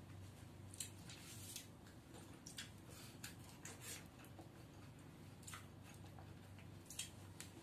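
Soft wet mouth sounds of a man chewing and sucking the pulp from cooked drumstick pods (moringa), a few scattered smacks over a low steady hum.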